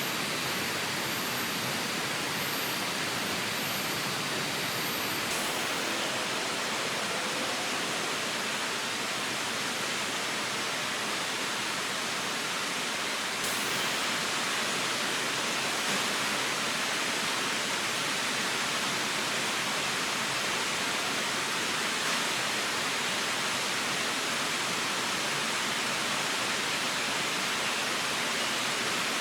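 Steady rushing of a river flowing, with a slight step up in level about halfway through.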